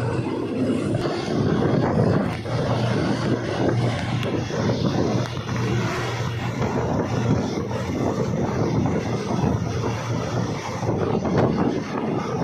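Diesel-hauled passenger train under way: a steady rumble of wheels on the rails with a low drone and rushing air.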